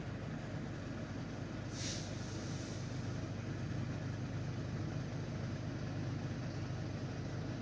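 Long-distance passenger train pulling out of the station, running with a steady low hum, with a brief hiss about two seconds in.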